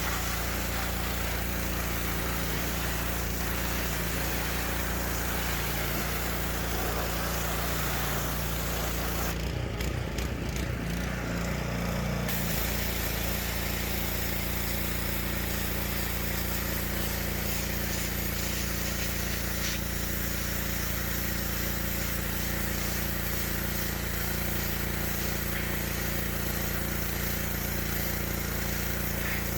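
Simpson PS3228-S gas pressure washer's Honda GX200 engine running steadily, with a hiss over it. About ten seconds in, the hiss drops out for roughly three seconds while the engine note shifts, then both carry on steadily.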